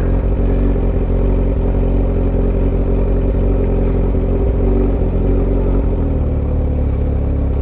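2003 Yamaha R1's inline-four engine running through a short aftermarket exhaust at a steady speed, its note shifting about six seconds in.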